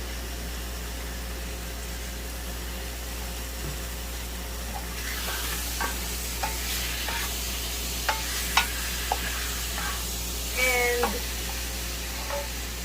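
Chicken thighs frying with onion and garlic in a pan of oil, sizzling steadily; the sizzle grows louder about five seconds in, with scattered sharp clicks.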